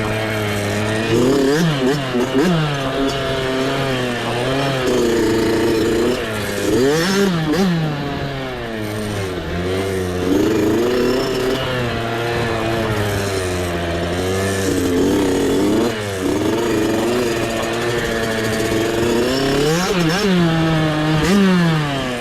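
Mini dirt bike engine revving up and down under constantly changing throttle, its pitch rising and falling every second or two, with sharp rises about two, seven and twenty seconds in.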